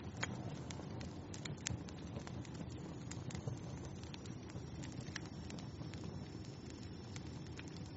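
Wood fire burning in a fireplace: a low steady rumble of flames with irregular sharp crackles and pops. A faint thin high whistle comes in about three seconds in and holds, falling slightly.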